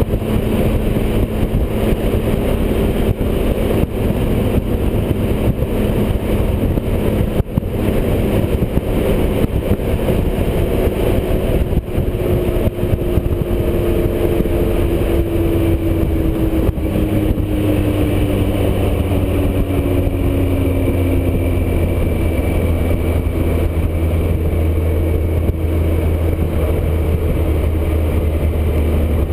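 Motorcycle riding at highway speed: steady wind rush over the microphone with the engine running underneath. A tone slowly falls in pitch through the middle.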